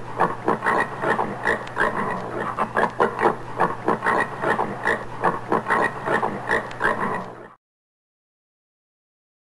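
Common warthog grunting in a fast run of short grunts, about three or four a second, which stops about two seconds before the end.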